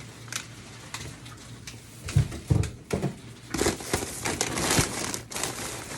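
Plastic grocery bags and packaging crinkling and rustling as groceries are unpacked, with a few soft knocks as items are set down a little after two seconds in.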